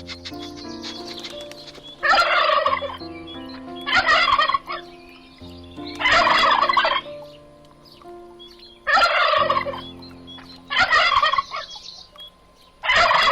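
Turkey gobbling: six loud gobbles, each under a second long, coming about every two seconds.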